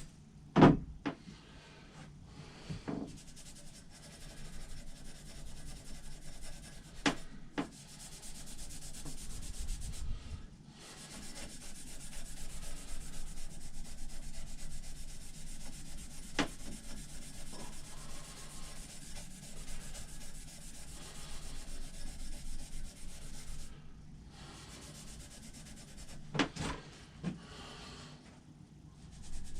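A Scotch-Brite abrasive pad scrubbed back and forth by hand on a rusty steel axe head, rubbing off rust and polishing the metal. A few sharp knocks break in, the loudest about a second in.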